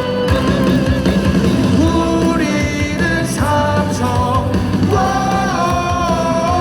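Loud, rock-style cheer music over ballpark loudspeakers, with a crowd singing along to a player's cheer song in a stepping melody over a steady beat.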